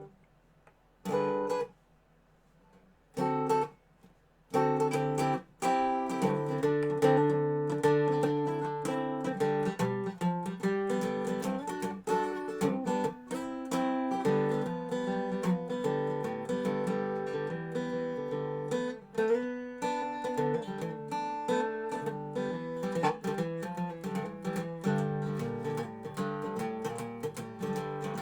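Dobro (resonator guitar) being played: a few short plucked phrases with pauses in the first five seconds, then continuous picking.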